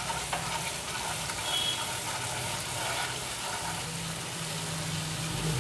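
Spiced masala paste for a chicken curry sizzling in oil in a nonstick frying pan while a spatula stirs it; the oil has separated out of the masala, the sign it is fully fried. A steady low hum runs underneath, growing stronger about two-thirds of the way in.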